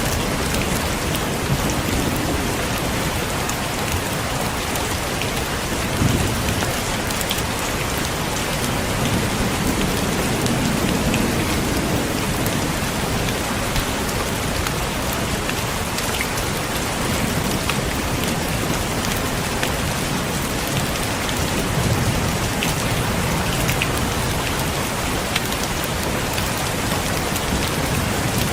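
Heavy rain falling steadily, with low thunder rumbles swelling up now and then, about six seconds in, around the middle and again near twenty-two seconds.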